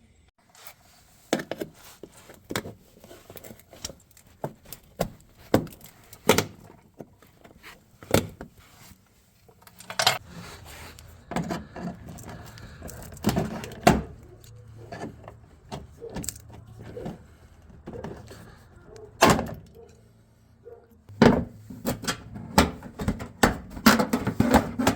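Hands working on a car: irregular clicks, taps and knocks of plastic clips and parts being handled and undone, with a denser clatter near the end.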